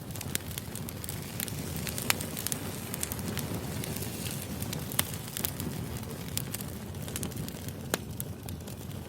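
Wood fire burning: a steady low rush of flames with continual small crackles, and a few sharper pops about two, five and eight seconds in.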